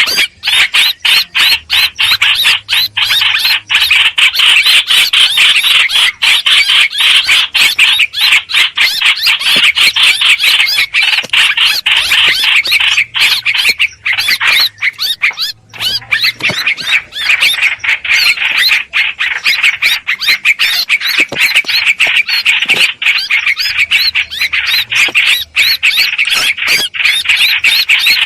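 Hoành hoạch bird calling without a break: a rapid, harsh chattering song, played as a lure call for trapping birds of the same species. There is a brief pause about halfway through.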